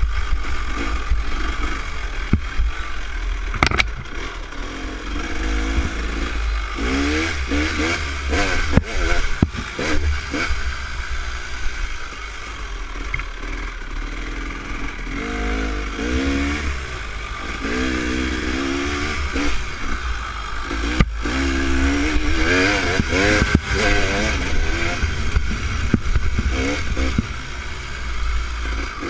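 Dirt bike engine being ridden on a trail, its pitch climbing and dropping over and over as the rider opens and closes the throttle and shifts. A heavy low rumble of wind on the microphone runs underneath, with a few sharp knocks.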